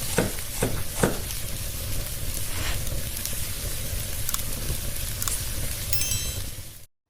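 Food sizzling in hot oil in a pan, with a few quick spoon strokes against the pan in the first second; the sizzle cuts off suddenly near the end.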